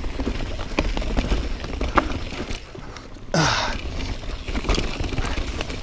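Yeti SB4.5c full-suspension mountain bike clattering down a rooty, rocky trail: a steady rumble of tyres and wind on the helmet microphone, with frequent knocks and rattles as the wheels hit roots and rocks. A loud rush of noise comes in about three seconds in.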